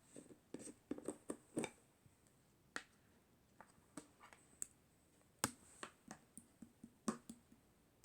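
Clear aloe-soothing-gel slime being handled, giving off irregular sharp clicks and small pops: a quick run of them in the first two seconds, then sparser ones.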